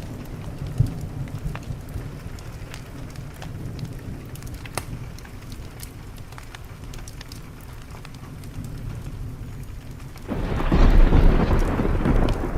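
Thunderstorm with steady rain and a low rolling rumble, over a wood fire crackling with sharp pops; about ten seconds in a loud crack of thunder breaks and rumbles on.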